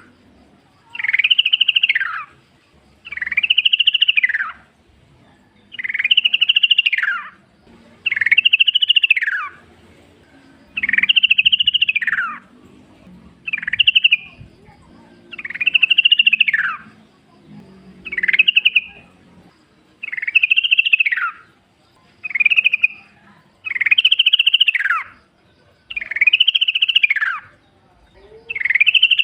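Yellow-vented bulbul (trucukan) singing a repeated bubbly phrase about once every two seconds; each phrase rises and then falls in pitch.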